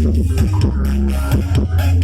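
Loud music with heavy bass played through a large carnival parade sound system.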